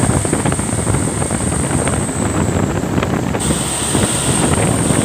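Truck under way: steady engine and road rumble with wind buffeting the microphone.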